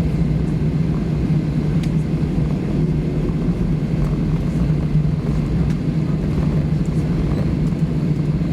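Steady cabin rumble of an Airbus A320 on the ground after landing, with a constant low hum under it.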